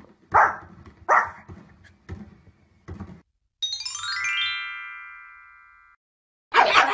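A small fluffy dog barks twice, loudly, then a few quieter barks. A falling run of chime notes follows and rings out and fades. About half a second before the end, a pug starts barking rapidly and excitedly.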